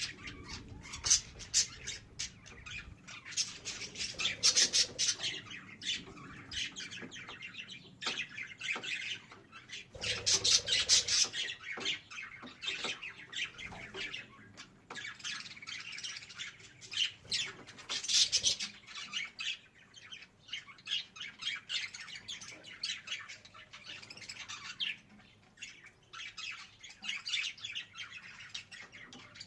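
Budgerigar chattering and warbling: a continuous stream of rapid chirps, twitters and squawks, with louder bursts now and then.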